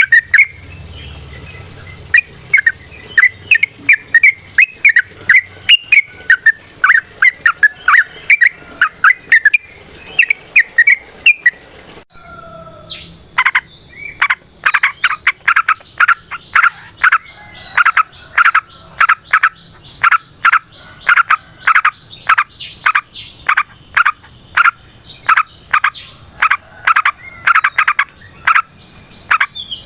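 Yellow-vented bulbul (trucukan) singing a long run of short chirping notes. About twelve seconds in, the recording cuts to a faster, louder stretch of rapidly repeated notes: the long continuous 'ropel' song.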